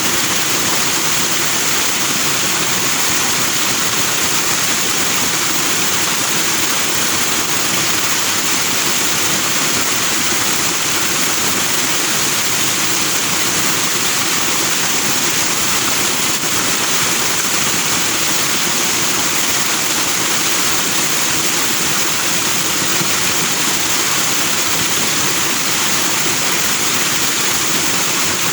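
Forest stream rushing over rocks, a steady, loud wash of flowing, foaming water.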